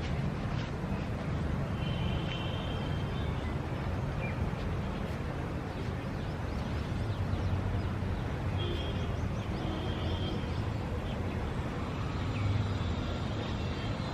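City ambience: a steady low rumble of traffic, with a few short high tones over it around two and nine seconds in.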